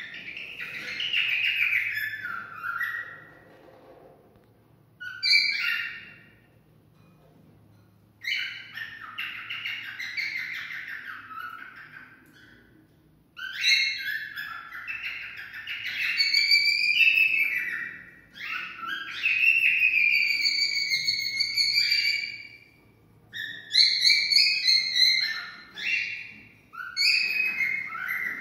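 Cockatiel singing: phrases of warbling, sliding whistles, each a second to a few seconds long, with short pauses between them.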